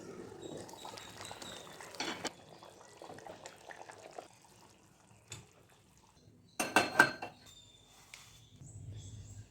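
Kitchen work: metal pots and utensils clinking and clattering, with liquid sounds, and a loud sharp clatter about seven seconds in.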